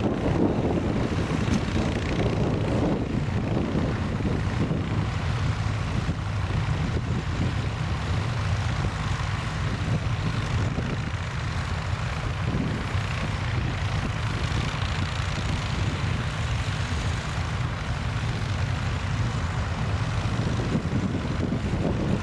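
Tractor engine running steadily under load, with wind buffeting the microphone.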